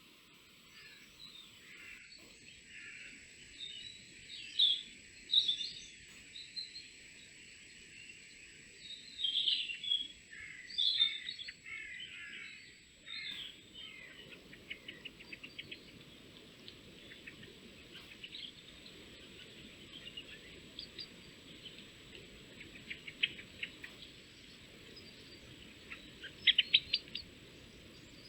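Small woodland songbirds calling and singing in short bursts of chirps and quick trills, loudest about a third of the way in and again near the end, over a faint background hiss and a faint steady high tone.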